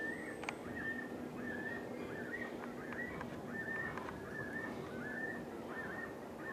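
A bird calling over and over, short high chirps about twice a second, over steady low background noise.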